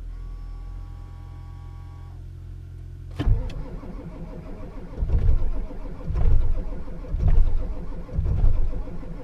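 Ford 7.3 L Power Stroke V8 diesel being cranked in the cold: after a steady low hum, a sharp click about three seconds in as the starter engages, then slow, heavy cranking surges about once a second, without the engine catching. It is a cold-soaked diesel on weak batteries that will not fire without its block heater.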